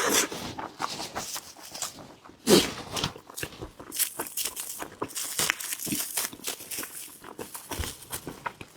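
Close-miked wet chewing and lip-smacking of a sticky glutinous rice ball (qingtuan) with black sesame filling: a run of irregular soft clicks and smacks, with one louder smack about two and a half seconds in.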